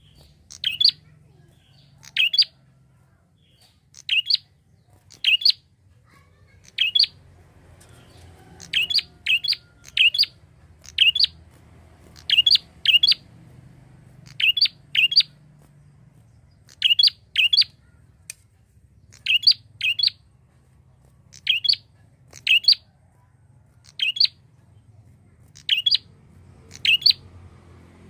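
Prinia (prenjak) calling: short, sharp high chirps, mostly in quick pairs or threes, repeated every one to two seconds.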